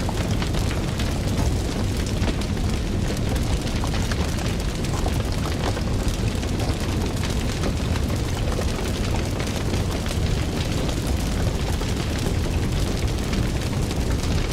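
Fire crackling: a steady low rumble of flames with a constant scatter of small pops and crackles.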